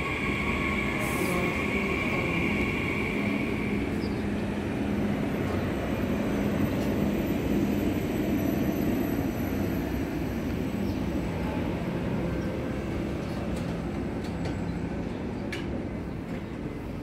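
Red double-deck regional electric train pulling out past the platform: a continuous rumble of wheels and running gear that swells and then fades as the train draws away. A high steady whine sounds over it for the first few seconds.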